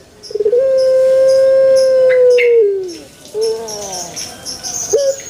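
Puter pelung dove calling: a stuttering start, one long steady note of about two seconds that slides down at its end, then a short falling note and a brief rising one near the end. Faint high chirps repeat in the background.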